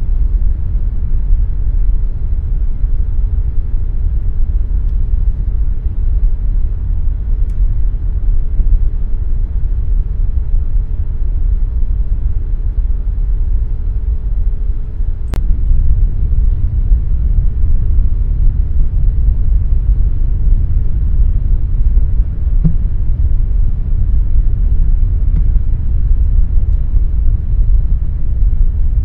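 Air conditioner running steadily: a loud, even low-pitched noise. A faint steady tone above it stops with a small click about halfway through.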